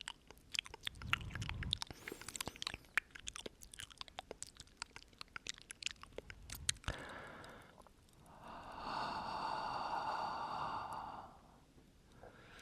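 Close-up mouth sounds into the microphone: many quick wet clicks and lip smacks for the first several seconds, then one long breath exhaled onto the microphone for about three seconds near the end.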